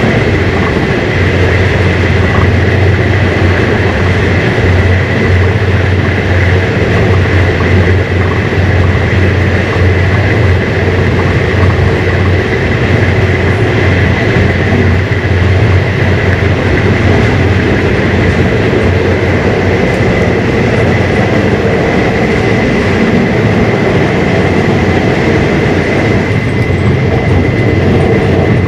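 Running noise of a moving passenger train heard from inside the carriage: a loud, steady low rumble with a thin steady whine above it.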